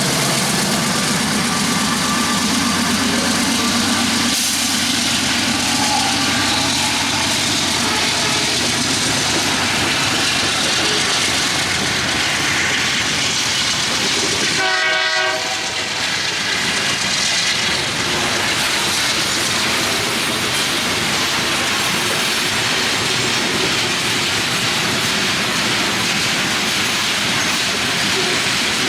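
Union Pacific freight train passing close by: a long string of railcars rolling over the rails, a loud, steady rumble and clatter of wheels.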